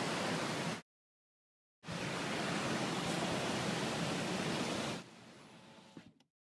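Rainstorm water: a steady rushing noise that cuts off abruptly under a second in, comes back about a second later, drops much quieter about five seconds in, then stops.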